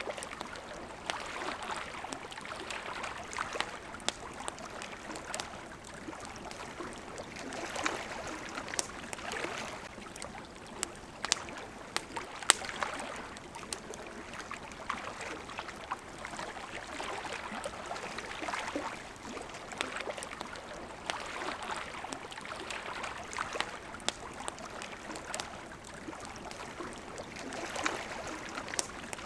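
Water lapping and splashing at the shore, swelling and easing every few seconds, with the scattered sharp pops of a crackling campfire.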